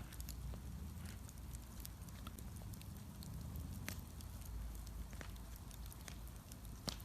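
Wood bonfire crackling, with irregular sharp pops and snaps over a steady low rumble; the loudest pops come about four seconds in and near the end.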